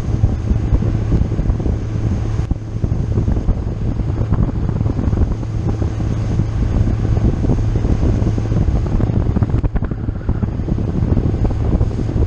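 A motorboat's engine running steadily under way, a constant low hum under the rush of wind and water, with wind buffeting the microphone.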